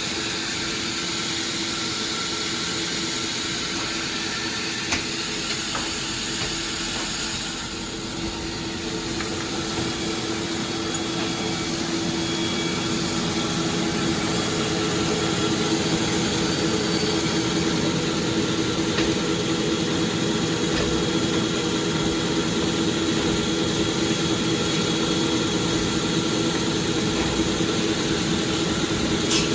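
Sawmill machinery running steadily with a constant hum, getting somewhat louder about halfway through.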